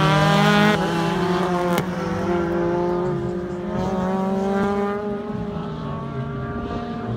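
Autocross car's engine revving hard through a cone course, its pitch climbing and dropping as the driver accelerates and lifts. It grows fainter as the car pulls away, with one sharp click about two seconds in.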